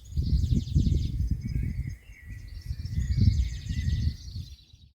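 Outdoor microphone audio of small birds chirping high and fast, over heavy gusty wind rumble on the mic. It comes in two stretches and cuts off suddenly near the end.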